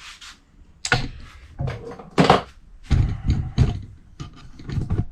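Irregular knocks and clunks of a camera being handled and repositioned, about a dozen thuds of varying loudness.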